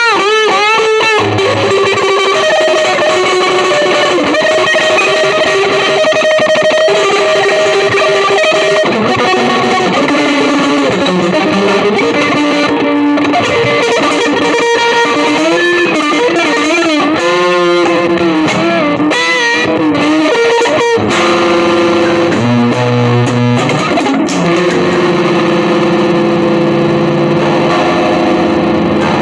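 Electric guitar played through effects with some distortion, mostly sustained notes with wavering vibrato and pitch bends; about three-quarters of the way through the playing shifts to lower, held notes.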